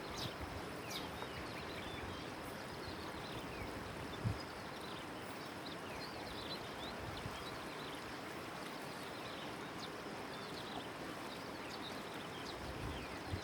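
Steady outdoor background hiss with many short, high bird chirps scattered through it, and one brief low thump about four seconds in.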